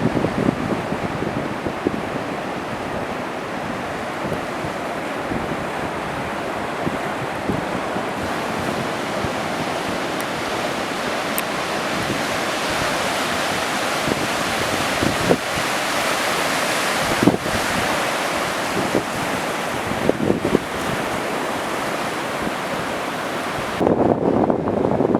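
Ocean surf rushing steadily, with wind buffeting the microphone and a few short knocks. Near the end the sound turns duller and lower.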